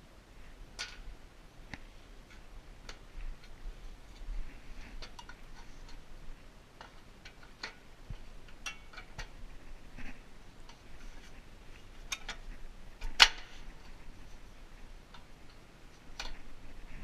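Irregular light clicks and taps from hands handling the parts of a lawn mower's recoil starter and its pull rope, with one sharper click about 13 seconds in.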